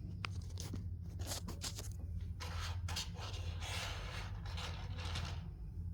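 Hands handling toy-egg packaging: several small sharp clicks, then a few seconds of crinkly rustling and scraping, over a steady low hum.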